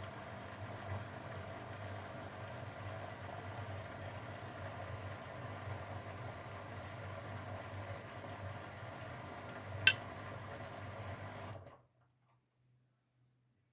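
Grundig washing machine running with a steady motor hum. A single sharp click comes a little under ten seconds in, and the sound cuts off abruptly about two seconds later.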